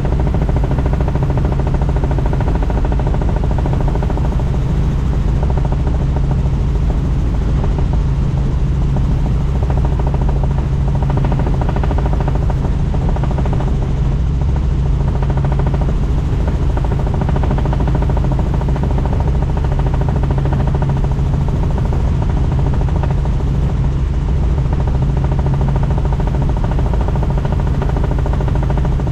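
Helicopter running steadily: the rotor and engine make a loud, even drone with a low, throbbing hum that does not change.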